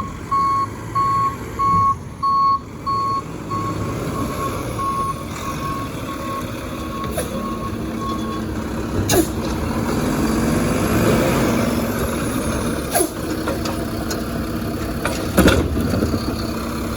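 Garbage truck backing up: its reverse alarm beeps evenly, about one and a half beeps a second, fading out about eight seconds in. The engine runs underneath and rises around the middle, with a few sharp bangs.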